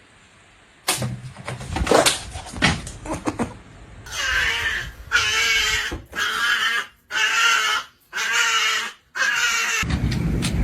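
Cat yowling, six long drawn-out calls in a row with short breaths between them, after a few scattered knocks and clicks. A low rumble starts near the end.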